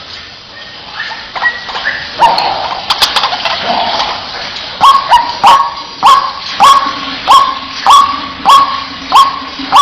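White-breasted waterhen calling. The croaking calls come irregularly at first, then from about five seconds settle into a loud, steady 'ruak' series of nearly two calls a second.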